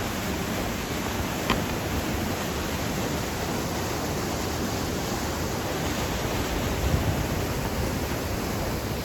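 Steady rush of a waterfall cascading past ice, with one brief click about a second and a half in.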